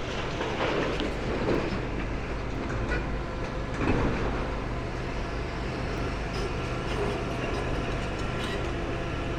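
Diesel engine of a large demolition excavator running steadily, with a few louder surges of noise, the loudest about four seconds in.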